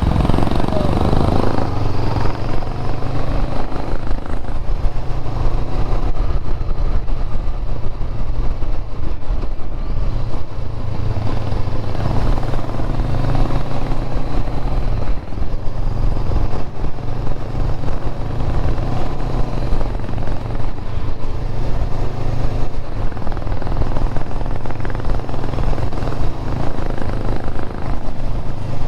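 Motorcycle engine running steadily while riding, heard from the rider's own bike with wind and road noise over the microphone.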